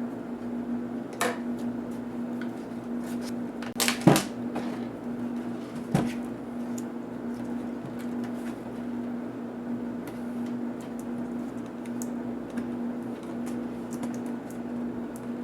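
A steady, even hum, with a few sharp clicks and knocks of laptop parts being handled; the loudest is a double knock about four seconds in.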